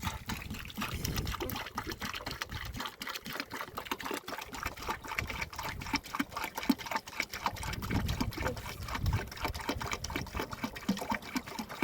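Dense, irregular patter of water drops, with a low rumble about 8 seconds in.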